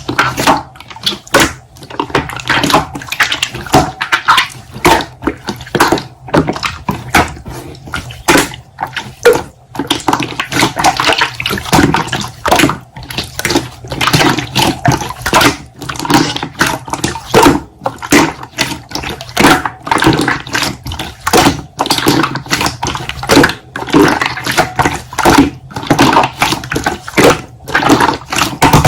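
Slime being squeezed, pressed and stretched by hand, making rapid, irregular wet clicks and squelches.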